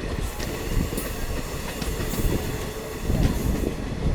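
Diesel multiple unit train running along the track: a steady rumble with a few scattered sharp clicks from the wheels and carriage.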